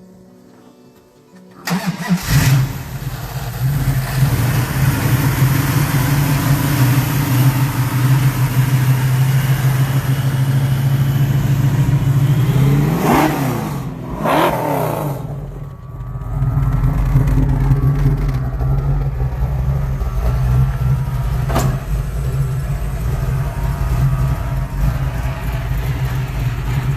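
Supercharged 408 stroker small-block V8 in a 1971 Dodge Challenger running at a steady idle. It comes in suddenly about two seconds in. About halfway through it is revved twice in quick succession, each rev rising and falling back, and then it settles back to idle.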